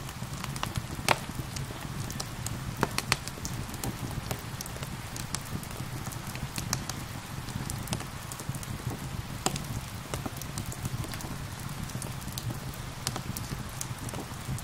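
Wood fire crackling, with frequent sharp pops and snaps over a low steady rumble, mixed with the even hiss of gentle rain. The loudest snaps come about a second and about three seconds in.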